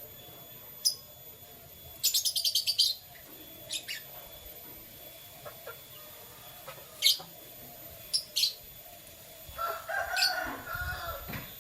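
Canaries chirping: scattered single high chirps, with one fast trill of about ten notes a little after two seconds in. A lower, busier patch of calls follows near the end.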